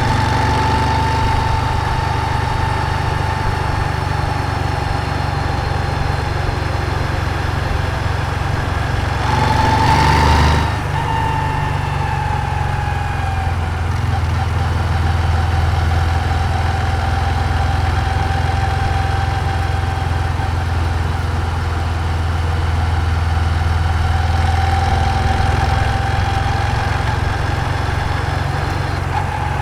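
Moto Guzzi V7's air-cooled transverse V-twin running at low, fairly even revs, its pitch drifting only slightly. A short, louder rush of noise comes about a third of the way through.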